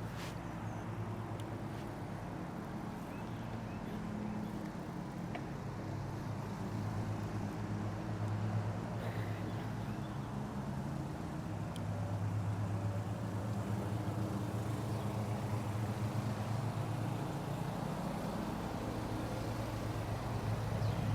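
Steady low drone of road traffic that slowly grows louder.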